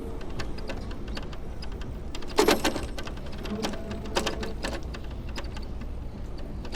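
Irregular light clicks and rattles from a bicycle, with a louder clatter about two and a half seconds in.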